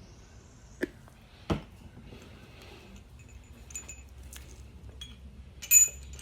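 Metal engine parts knocking and clinking together as they are handled: two sharp knocks about a second in, light ticks, then a loud cluster of ringing clinks near the end.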